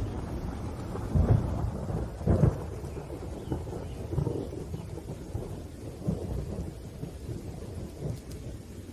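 Thunderstorm: rolling thunder over steady rain, with two loud claps about a second and two and a half seconds in, then smaller rumbles dying away.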